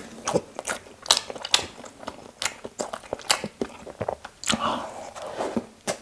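Close-up chewing of a toasted sandwich: irregular mouth clicks and smacks, several a second, with a softer, longer wet sound near the end.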